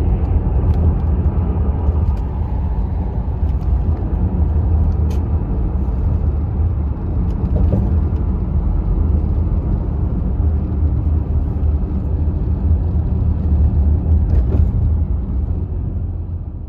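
Steady low vehicle rumble, fading out near the end.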